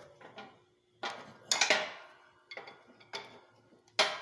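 Steel socket, extension and ratchet clinking and knocking together as they are handled and fitted: about six separate metallic clinks at irregular spacing.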